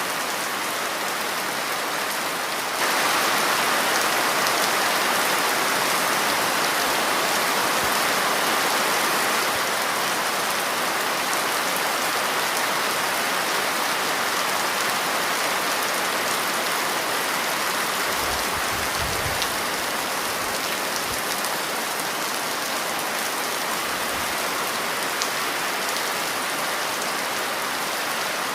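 Steady rain falling, growing louder about three seconds in, with a few brief low rumbles a little past the middle.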